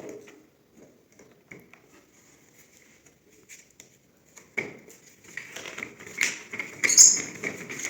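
Light clicks, knocks and rustling of handling, sparse at first, then a busy run of them from about halfway, loudest near the end.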